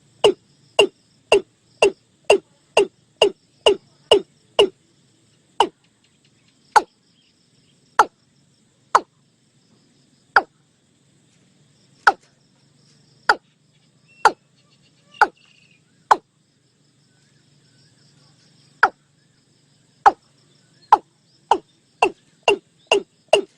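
Watercock calling: a run of short, sharp notes, each falling in pitch, coming about two a second at first, slowing to about one every second or so, then quickening again near the end.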